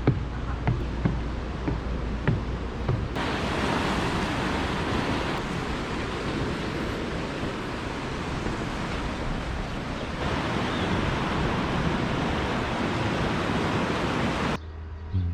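Sea surf washing on the shore, a steady rush of noise with wind on the microphone, starting abruptly about three seconds in and cutting off abruptly near the end. Before it come a few sharp clicks over a low hum.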